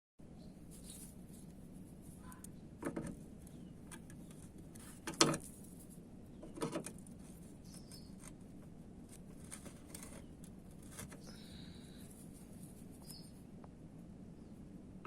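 A few sharp clicks and knocks of hand tools on a car's front bumper, the loudest about five seconds in, over a steady low hum. Faint bird chirps come in now and then near the end.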